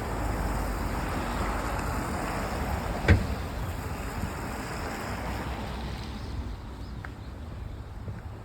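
Snowy city street ambience: a steady low rumble and hiss of traffic and wind on the microphone, with one sharp knock about three seconds in.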